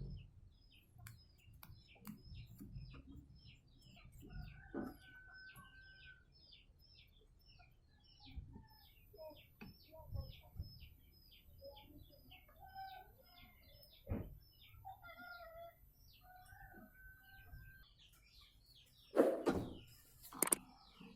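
Chickens clucking faintly now and then, over a steady run of short high chirps about two a second. Scattered light clicks are heard, and there are a few louder knocks or scrapes near the end.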